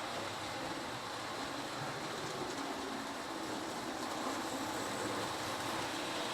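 Several model electric trains running together around their loops on a test layout: a steady whir and rumble of motors and wheels on track.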